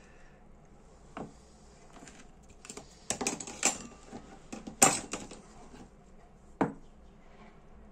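Scattered sharp clicks and taps of small metal parts being handled as a Dupont L2 lighter's gas valve is taken apart. The clicks are loudest about five seconds in.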